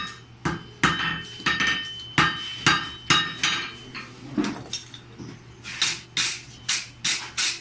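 Blacksmith's hand hammer striking hot metal bar stock over the anvil horn to bend it into a hook. The blows come about two a second, some with a ringing tone, and there is a short pause midway.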